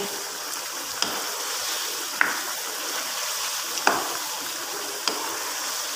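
Potato and eggplant curry sizzling steadily in oily masala in a wok as it is fried and stirred with a wooden spoon, with a few sharp knocks of the spoon against the pan.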